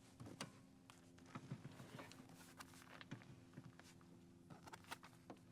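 Faint, irregular clicks and taps of camping gear being handled, likely tent parts during setup, over a low steady hum.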